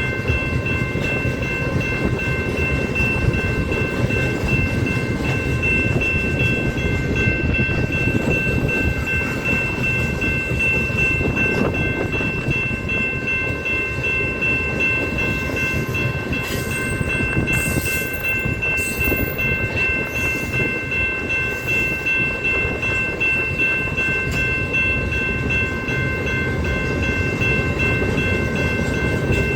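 Loaded coal cars of a freight train rolling past, a steady heavy rumble with a steady high-pitched whine over it throughout.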